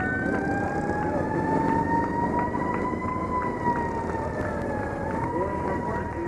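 Police motorcycle siren wailing in one slow, long rise, holding, then dipping slightly about five seconds in, over a low rumble.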